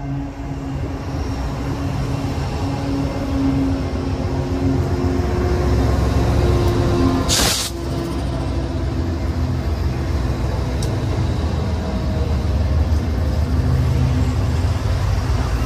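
A train's diesel locomotives run by with a heavy rumble that grows louder over the first few seconds and then holds steady. About halfway through there is one short, sharp hiss.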